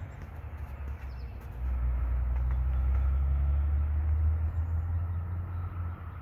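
Ford Coyote 5.0 V8 in a Fox-body Mustang idling with a steady low rumble that gets louder about a second and a half in.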